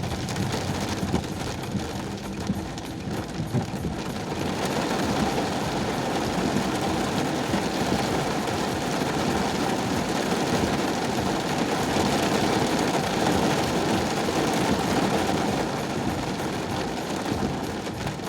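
Steady road noise of a vehicle driving in heavy rain: a dense hiss of rain and wet tyres over a low engine hum. It grows louder about five seconds in and eases near the end.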